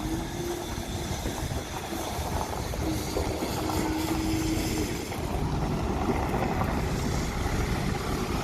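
Train running: a steady rumble and hiss that grows slightly louder. A faint steady tone sounds briefly at the start and again for about two seconds near the middle.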